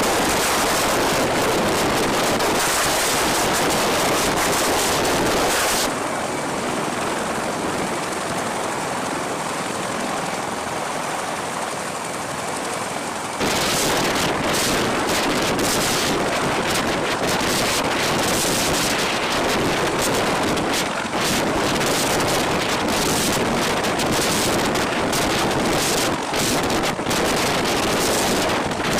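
Loud, steady rushing noise of wind buffeting the microphone, with flickering gusts. The sound changes abruptly about six seconds in, with the hiss dulled, and comes back about thirteen seconds in, as at cuts between shots.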